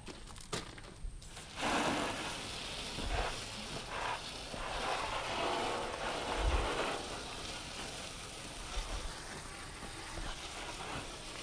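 Pressure-washer water spray hissing against a dump truck, starting abruptly about a second and a half in and running on steadily, with small swells as the spray moves.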